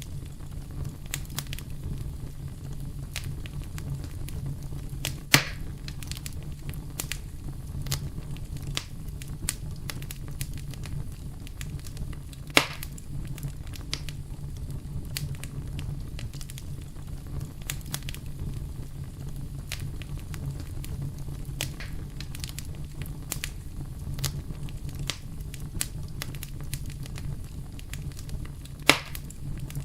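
Wood fire burning, with a steady low rumble of flames and continual crackling. Three louder pops stand out, about 5 seconds in, about 12 seconds in, and near the end.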